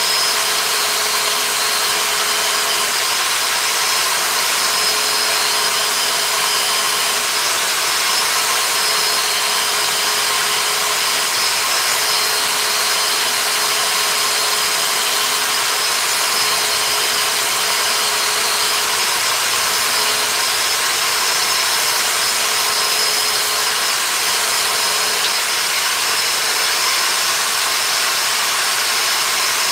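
Electric power tool running steadily on wood, a continuous high whine over a broad hiss with no pauses.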